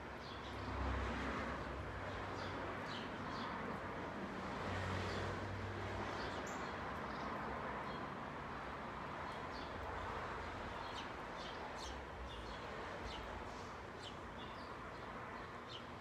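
Small songbirds chirping in short, scattered high notes over a steady background hiss and low rumble.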